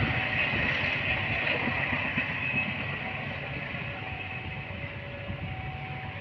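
A passenger train running along the track at a distance, its steady rumble and rail noise slowly fading away.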